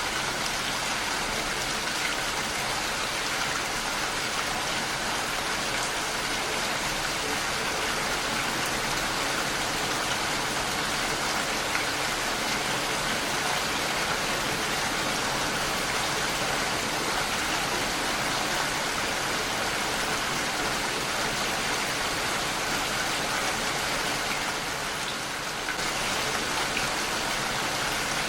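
Heavy rain falling steadily, a dense even patter on a window, dipping briefly near the end.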